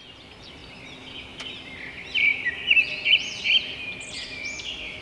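Birds chirping and twittering, many short overlapping calls that fade in and grow louder, with the brightest chirps in the middle.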